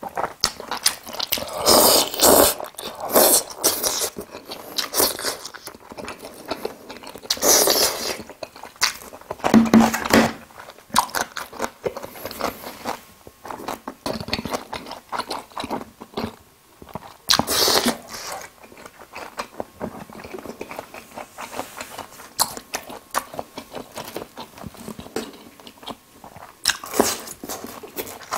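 Close-miked eating of jajangmyeon black-bean noodles: wet chewing and biting in irregular loud bursts, with some crunching bites.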